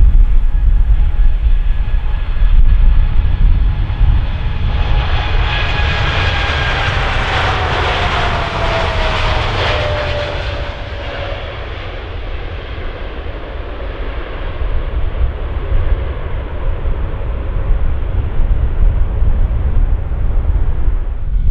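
Jet airliner passing close by: its engine noise swells to a peak about eight seconds in while the engine whine drops in pitch as it goes past, over a steady low rumble.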